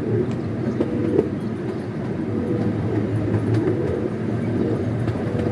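Scenic railway ride train running along its track, heard from aboard: a steady low rumble with light, scattered clicks from the wheels on the rails.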